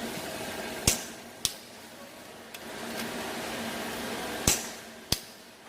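Sharp metal clicks of a wrench on engine bolts: four in all, the loudest about a second in and again near the end, each loud one ending a couple of seconds of steady mechanical noise with a low hum.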